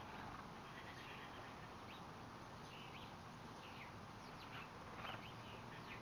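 Small songbirds chirping faintly: several short, high chirps scattered through, over a steady background hiss.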